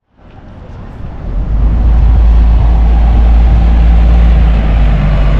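A boat's engine running steadily, a loud low drone with an even rumbling hum, fading up over the first couple of seconds.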